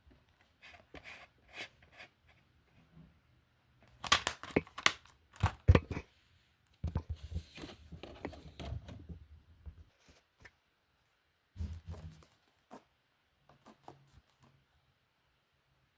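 Handling noise: scattered clicks and knocks, a quick cluster of sharp knocks about four seconds in, then a few seconds of rustling and a few more knocks later.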